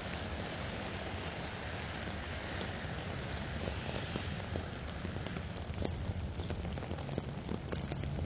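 Steady heavy rain drumming on an umbrella, with sharp ticks of individual drops. A low hum from passing traffic comes in near the end.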